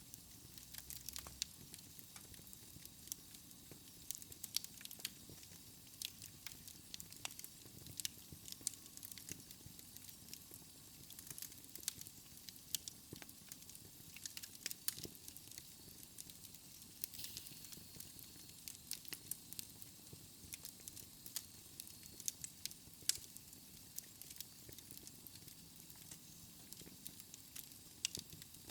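Logs burning in a fireplace, crackling with many sharp, irregular pops and snaps over a faint steady hiss.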